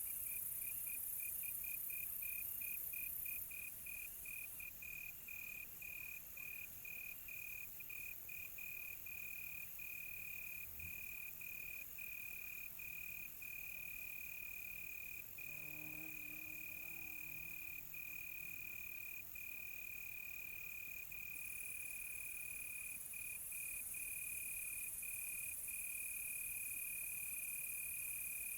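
Cricket chirping: a single high trill, quick separate pulses at first that run together into an almost continuous trill with brief breaks, over a high hiss of night insects.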